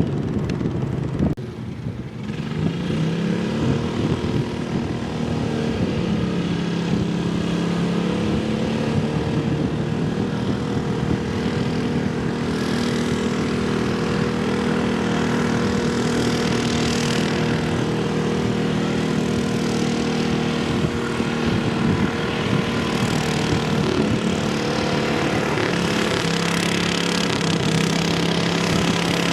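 Pulling tractor's engine running hard at high revs. The pitch climbs over the first few seconds, holds steady for most of the run, and dips briefly and recovers near the end.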